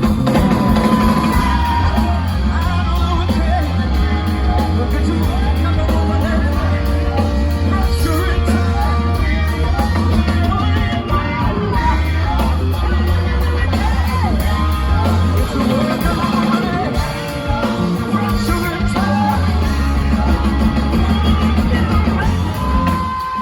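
Rock band playing live and loud, with singing over the band.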